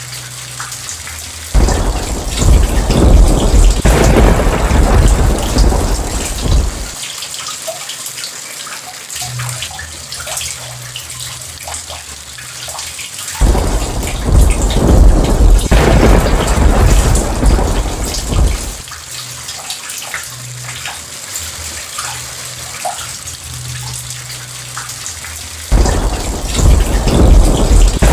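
Steady rain with scattered drips, and thunder rolling three times, about twelve seconds apart. Each roll starts suddenly and rumbles for about five seconds.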